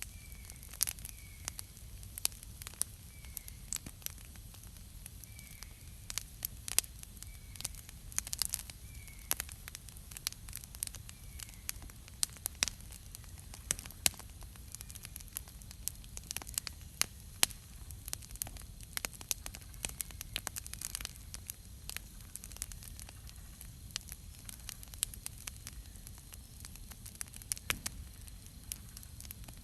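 Campfire crackling with frequent sharp pops. In the first dozen seconds a bird chirps faintly about once a second.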